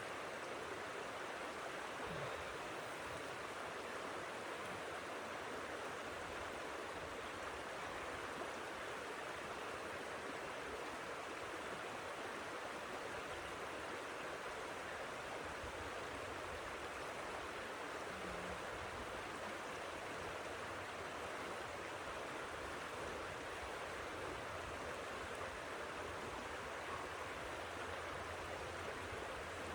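Steady, even rushing noise with no pitch or rhythm, like the hiss of blizzard wind.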